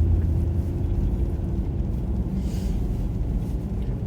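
Steady low rumble of a car driving on a snow-covered road, heard from inside the cabin, with a brief hiss about two and a half seconds in.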